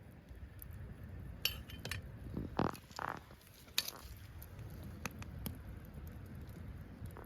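A handful of light clinks and knocks, like camp cookware or utensils being handled, between about one and a half and four seconds in, over a steady low rumble.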